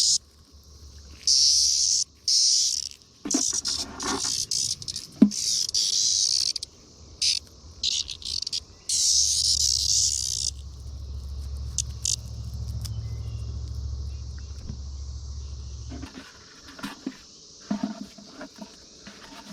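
Brood X periodical cicadas buzzing close by in loud, high-pitched bursts of about a second each, starting and stopping, over a faint steady cicada chorus. A low rumble runs under the middle of the stretch.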